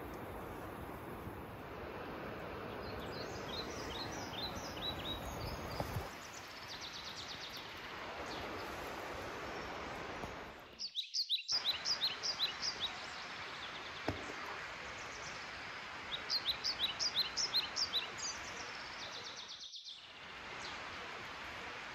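A small bird singing: runs of quick, repeated high chirps, heard three times, over a steady outdoor hiss.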